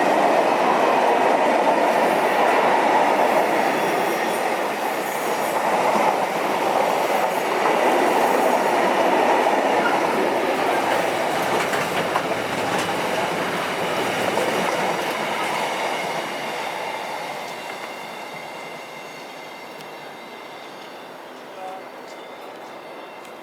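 Train running past on the rails, loud for most of the time, then fading away over the last several seconds as it draws off.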